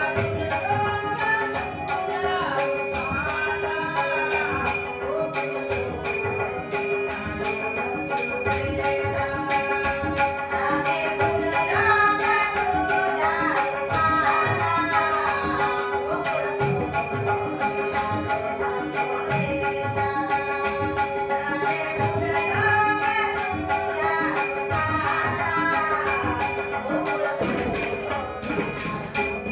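A Marathi gavlan bhajan: a woman sings in phrases over a steady harmonium drone, with tabla and a fast, even jingling percussion keeping time. The voice comes and goes, with purely instrumental stretches between the sung lines.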